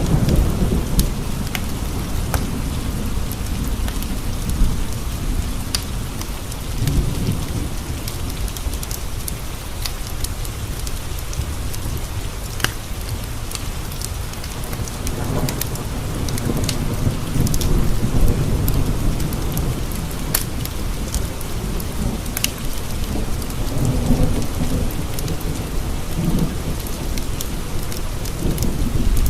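Steady rain against window panes, with a deep rolling rumble of thunder that swells and fades several times. Scattered sharp ticks sound through the rain.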